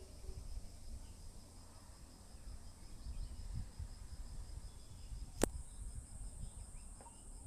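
Insect chorus chirring steadily in a high band, with a faster pulsing note beneath it, over a low rumble. One sharp click comes about five and a half seconds in.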